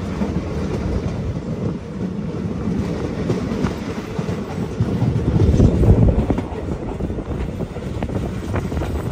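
Passenger train running on the rails, heard from an open coach doorway: a steady rumble of wheels on track with wind on the microphone, swelling louder about five to six seconds in as the train comes into a station.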